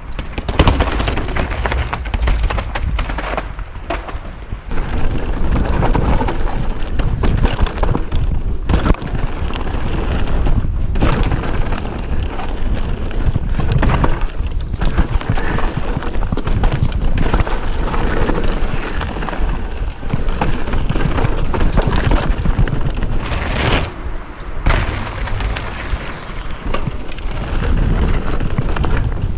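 Onboard sound of a Propain Spindrift full-suspension mountain bike descending a steep, technical trail: wind buffeting the camera microphone, tyres running over dirt, and many sharp knocks and rattles from the bike over rough ground. It is loud throughout, easing briefly about four seconds in and again near 24 seconds.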